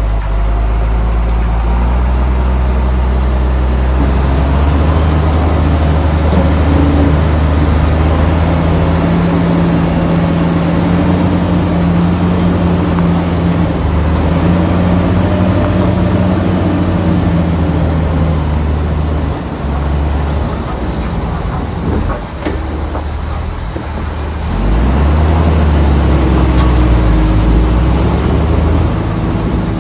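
Heavy diesel engine of earthmoving machinery working under load, its pitch rising and falling as the throttle changes. It eases off for a few seconds past the middle, with a couple of sharp knocks, then pulls hard again.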